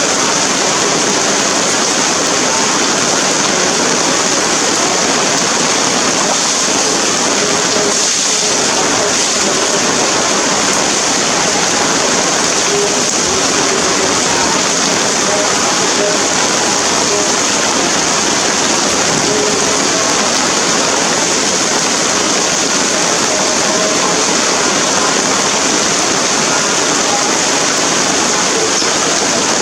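Steady rain falling, a loud even hiss without breaks.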